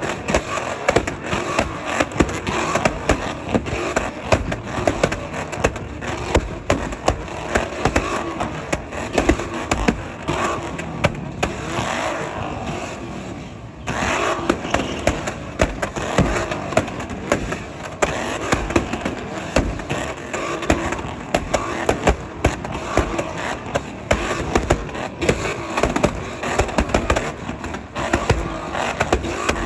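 Several Ford Mustangs doing burnouts at once: engines revving hard, with many sharp pops throughout and a short dip in the noise about halfway through.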